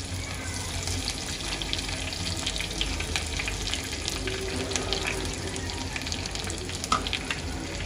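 Garlic, curry leaves, onion and dried red chillies sizzling and crackling in hot mustard oil in a small tadka pan.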